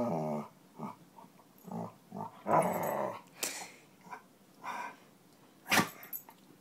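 Dog growling in a string of short low grumbles, the longest about two and a half seconds in, a sign that he is unhappy about a new kitten. A brief sharp noise comes near the end.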